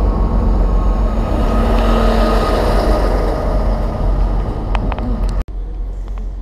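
A Great Western Railway diesel multiple unit running past close by along the platform: a steady rumble of wheels and engine with a faint steady whine and a couple of brief high squeals near the end. About five and a half seconds in, the sound cuts off suddenly to a quieter station background hum.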